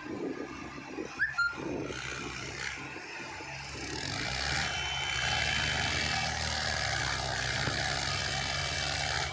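Tractor diesel engine running, growing louder about four seconds in and holding there.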